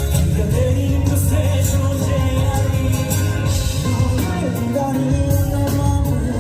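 Live rock band playing a song, a singer's voice over a heavy bass line and drums with cymbals; the low bass eases off for about a second near the end.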